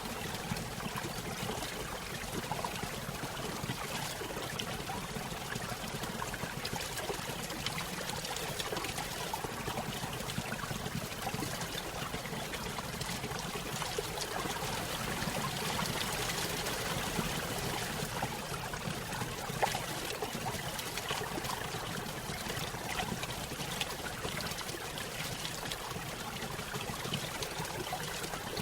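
Small stream trickling and splashing over a little waterfall, a steady, continuous babble of falling water.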